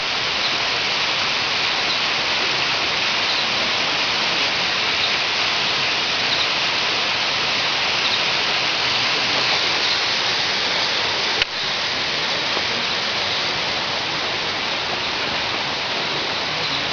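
Steady rush of a monsoon waterfall: a dense, even hiss of falling water. A single sharp click about eleven and a half seconds in.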